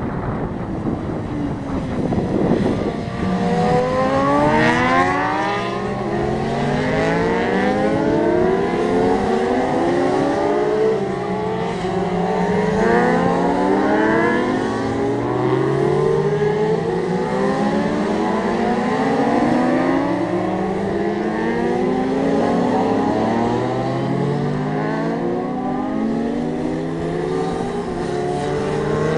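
Racing motorcycles on track, several engines at once, revving hard and changing up through the gears, so the pitch climbs and drops back again and again. About two to three seconds in, one engine's pitch falls away as a bike goes by.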